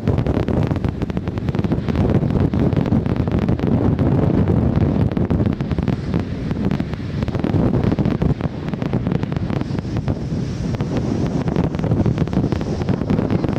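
Strong wind buffeting the microphone: a loud, gusting rumble with constant crackling knocks.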